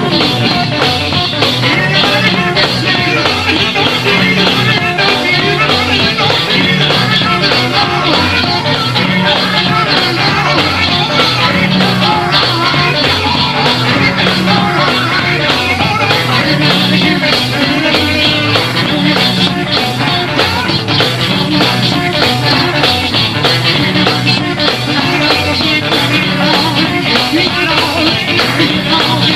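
Live gospel band music played loud and without a break, guitar and drums over a repeating bass line.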